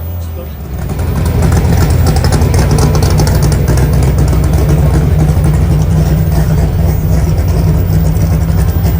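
Car engine running loud and steady at a low, even pitch close to the microphone, swelling in loudness about a second in.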